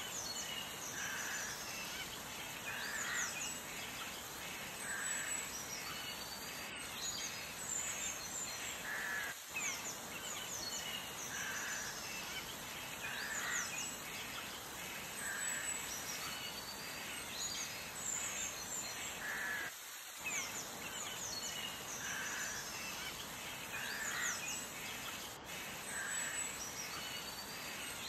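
Birds calling over a steady background hiss, one call recurring about every two seconds with quick higher chirps between.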